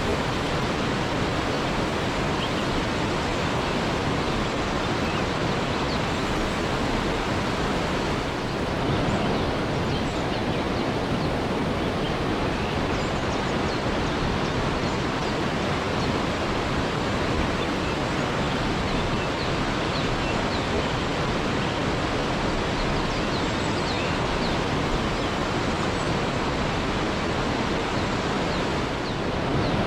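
Waterfall rushing steadily, an even roar of falling water with no change in level. Faint short high chirps show through now and then.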